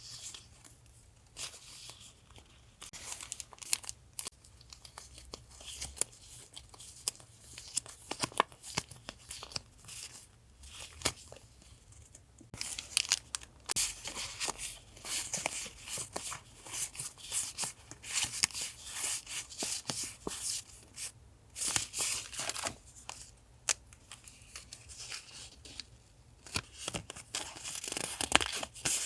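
Sticker and paper-goods packaging being handled and unwrapped: a run of crisp paper rustles, crinkles and tearing that gets much busier about halfway through.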